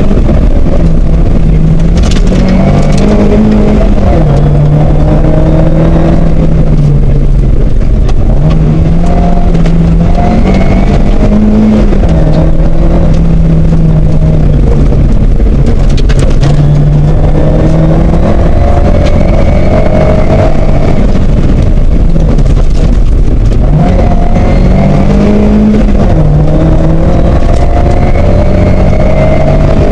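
Toyota Corolla rally car's four-cylinder engine heard from inside the cabin at stage pace, the revs repeatedly climbing and then dropping as the car accelerates and lifts or changes gear. A few brief sharp clicks come about 2 and 16 seconds in.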